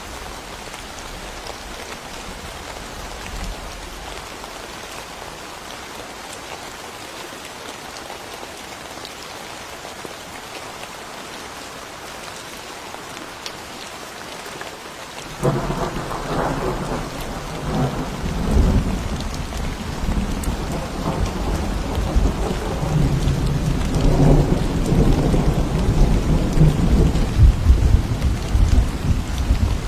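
Steady rain falling on leaves and ground. About halfway through, thunder breaks in suddenly and rumbles on in long rolling peals, growing louder toward the end.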